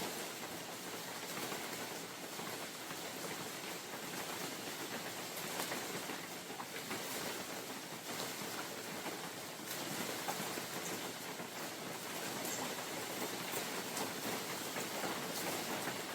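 Steady spring rain falling in a forest: an even hiss of rain on leaves and ground, with scattered close drops ticking through it.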